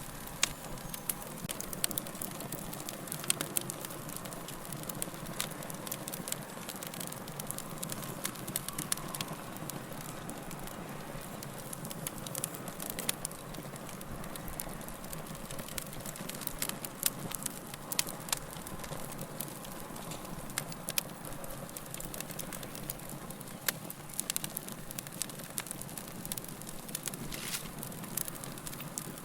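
Log fire burning with a steady low hiss and frequent sharp crackles and pops of the wood, scattered irregularly throughout.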